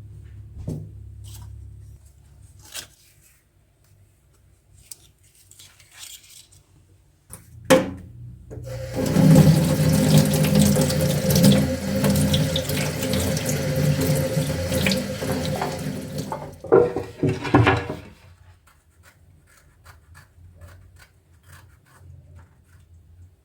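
Kitchen tap running for about ten seconds, starting and cutting off sharply, with a few light clicks and knocks of kitchenware before and after.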